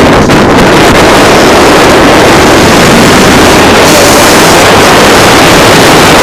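Honda CR85 two-stroke dirt bike engine running hard, recorded so loud that it distorts, with wind rushing over the microphone.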